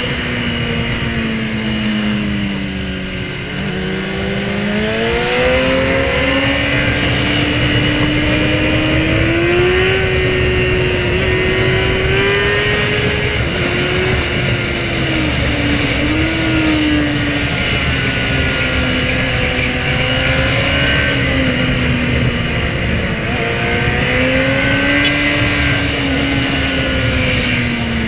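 Sport motorcycle's inline-four engine pulling and easing off through the revs, its pitch climbing slowly for several seconds, then dipping and rising again a few times, over a steady rushing noise.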